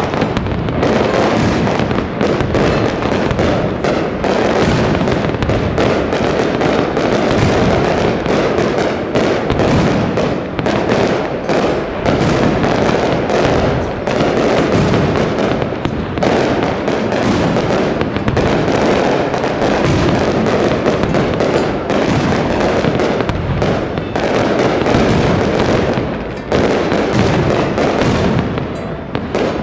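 Aerial fireworks display, loud: shells bursting and crackling one over another in rapid, unbroken succession.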